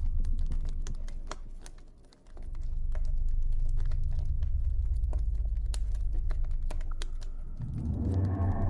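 Campfire crackling: irregular sharp pops and snaps over a low steady rumble. The rumble drops away briefly about two seconds in and swells near the end.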